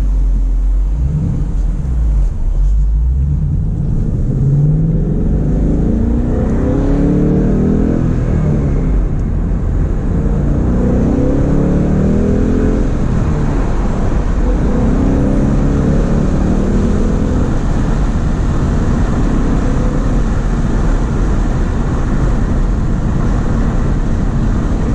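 2015 Ford Mustang GT's 5.0-litre V8 on its stock exhaust, accelerating hard, its engine note climbing and falling in pitch several times before settling into a steady drone with road noise.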